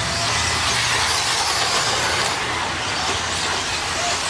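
Several 1/10-scale electric RC stadium trucks racing on an off-road track, their motors and tyres making a steady high-pitched hiss.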